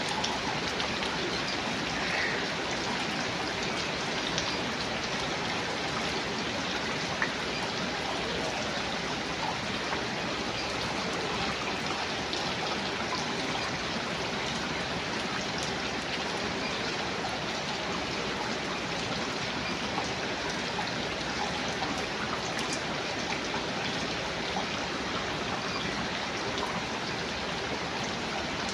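Steady rain falling, an even hiss with a few single drops ticking out above it.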